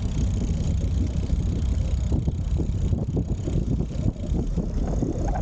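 Wind buffeting the microphone of a moving bicycle, a steady low rumble, with faint ticks from the bike as it rolls along a path.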